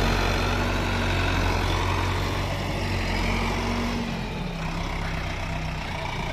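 Solis tractor's diesel engine running steadily, its pitch stepping down about four seconds in as the revs ease off.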